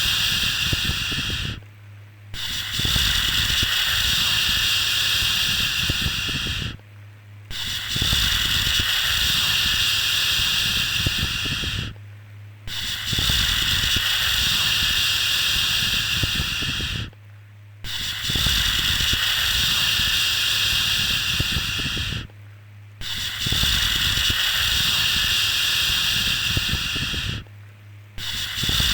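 Repeated long "shhh" shushing sounds for soothing a baby. Each hiss lasts about four and a half seconds, with a short pause between them, in an even rhythm. A faint low hum runs underneath.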